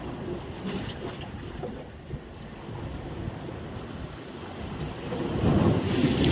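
Wind rumbling on the microphone over surf at the shore, rising to a louder rush near the end.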